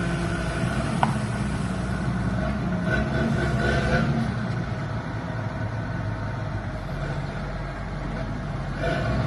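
2007 JCB 722 dump truck's diesel engine running steadily, with a short sharp click about a second in.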